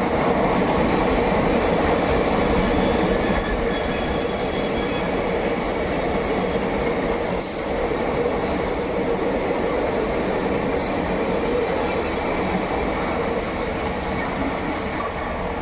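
Indian Railways express train running along the track: a steady rumble and rush of wheels on rail, with short high squeaks scattered through it.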